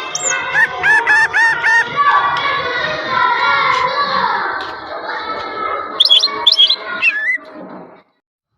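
Green leafbird (cucak ijo) singing a loud, varied, chattering song: a run of repeated arching whistled notes, then quick high notes. The song cuts off abruptly near the end.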